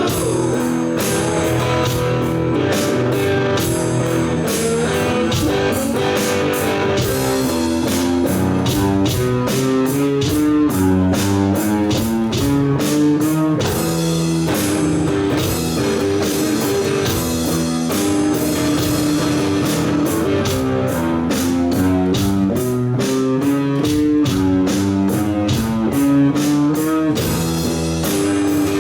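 Live rock band playing an instrumental passage: an electric guitar plays a moving melodic line over a steady drum kit beat.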